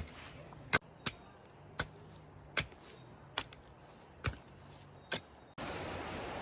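A series of sharp knocks, about one every 0.8 seconds, over a quiet background. Near the end the sound cuts to a louder, steady hiss of background noise.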